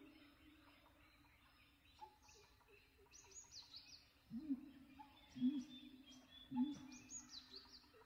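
Wild birds calling: quick high chirps, and a low hooting call repeated three times in the second half.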